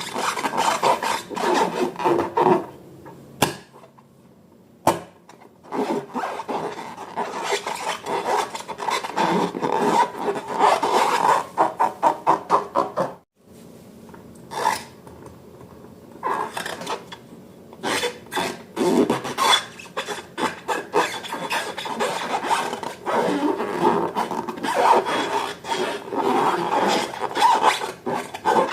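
Slime and balloons being handled: a dense run of sticky crackling, rubbing and squishing sounds, with a short lull about four seconds in and a brief break near the middle.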